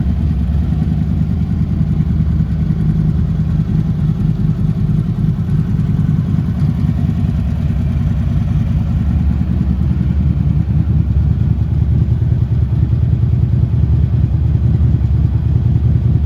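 2011 Harley-Davidson Street Glide's air-cooled V-twin engine idling steadily, a low pulsing rumble that grows a little louder in the second half.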